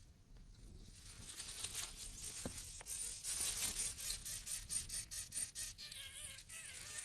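Nestling birds begging in the nest, a rapid, scratchy, high-pitched chatter that starts faintly and swells from about three seconds in, with a wavering buzz near the end.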